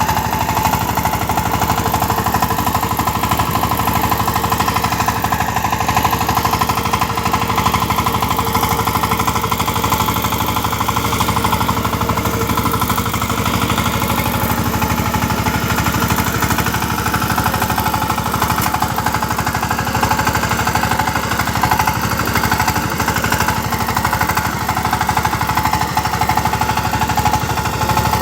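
Power tiller engine running steadily with a fast, even beat.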